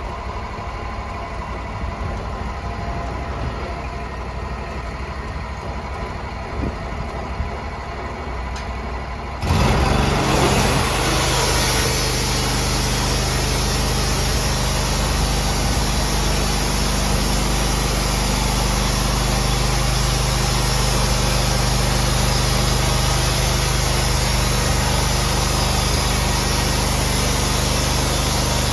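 Sawmill engine idling steadily, then about nine seconds in it suddenly gets much louder and fuller, as when the mill is throttled up, and it runs on steadily at that higher level.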